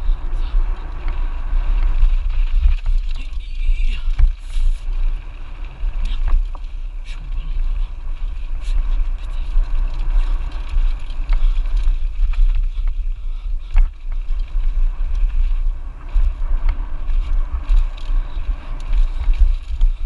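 Wind buffeting the microphone of a Lapierre Zesty AM mountain bike on a fast downhill descent, a heavy steady rumble. Short rattles and knocks from the bike running over rough trail are scattered through it.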